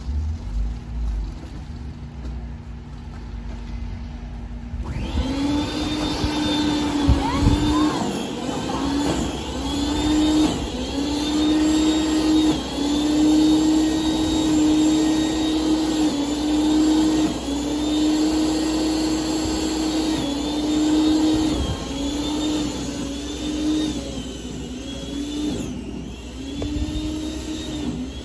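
Snowblower engine running, its pitch dipping and recovering again and again as it works under load. It comes in about five seconds in over a lower steady hum.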